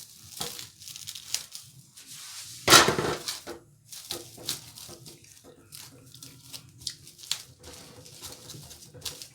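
Kitchen handling noises: crinkling, rustling and light clattering of packaging and dishes in short irregular bursts, with one louder rustling burst about three seconds in.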